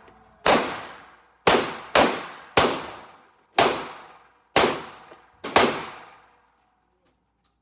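About seven gunshots fired at an uneven pace, roughly one every half second to a second. Each crack is followed by a ringing tail that dies away, and the firing stops after about six seconds.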